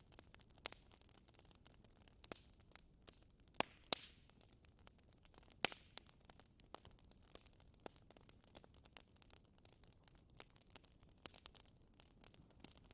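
Wood fire crackling: quiet irregular pops and snaps over a faint hiss, with a few louder snaps about four and six seconds in.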